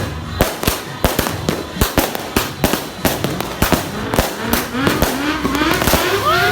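A 100-shot consumer fireworks cake firing, its shots cracking in quick, irregular succession, several a second. Near the end, wavering voices and a steady horn-like tone rise over the shots.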